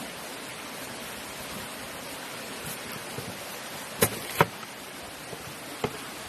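A knife chopping through an elephant apple (mataad) fruit: two sharp knocks close together about four seconds in and a lighter one near the end, over a steady rush of background noise.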